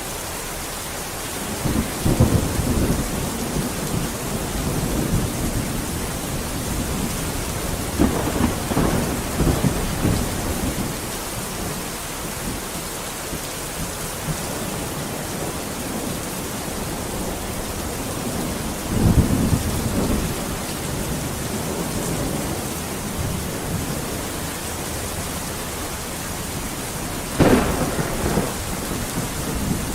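Steady rain falling, with rolling thunder rumbling up four times: about two seconds in, around eight to ten seconds, around nineteen seconds and near the end.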